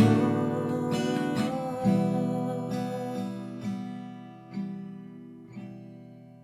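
Acoustic guitar strumming the closing chords of a song. Each strum rings on and decays, and the strums grow sparser and softer until the sound fades away near the end.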